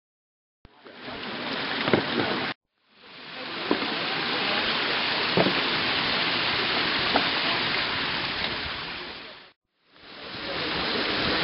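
Steady rushing noise like falling water, with a few faint knocks on top. It comes in three stretches that each fade in and break off abruptly.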